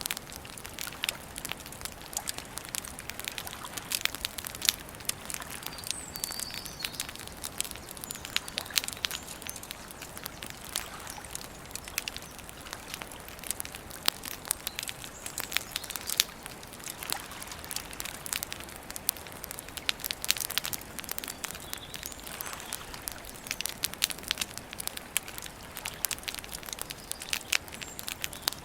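Wood campfire crackling and popping steadily with many irregular sharp snaps, and a few faint high bird chirps now and then.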